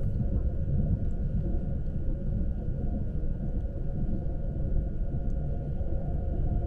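Interior running noise of a Lastochka electric train: a steady low rumble with faint steady whining tones above it.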